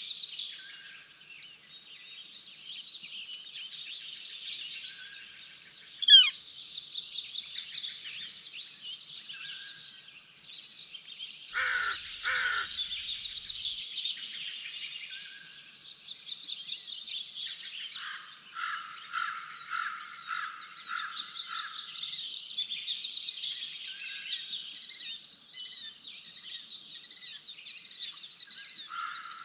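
Several songbirds singing and chirping over one another around a bird feeder, in a dense chorus of high trills. A pair of lower calls comes in about twelve seconds in, and a run of about five lower notes later on.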